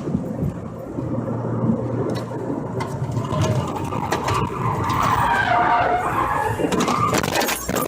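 A car's tyres skidding on the road, with a few sharp knocks near the end.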